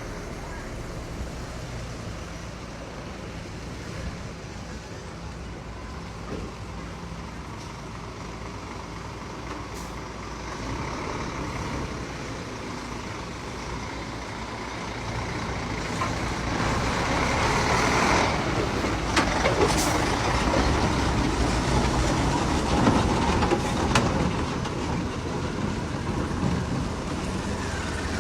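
Diesel engine of heavy construction machinery running steadily. It grows louder and rougher about halfway through, with a hiss and a few sharp clicks.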